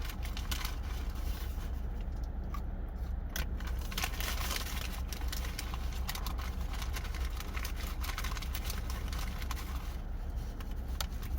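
Scattered small clicks, scrapes and crinkles, as of handling fast food and its paper packaging while eating, over a steady low hum.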